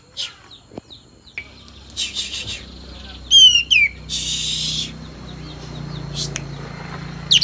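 Kapas tembak bulbul calls from a lure recording: short chirps, two sharp falling whistled notes about halfway through, and three harsh hissing rasps, over a steady low hum that starts about one and a half seconds in.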